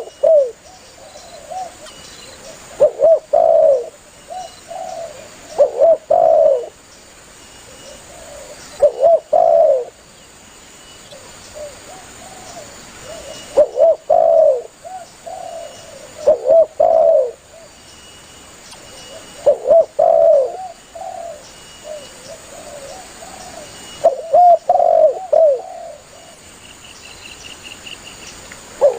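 Spotted dove (tekukur) cooing: short phrases of a few low, curving coos, repeated every three to five seconds.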